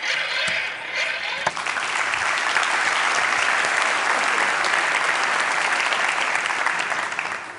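Audience applauding: a dense patter of many hands clapping that swells about a second and a half in, holds steady, and dies away near the end.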